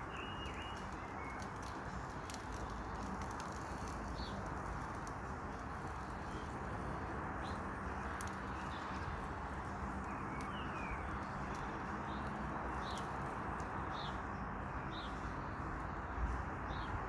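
Small birds chirping every second or two, short high calls, one with a quick falling note, over a steady rushing background, with a few faint clicks.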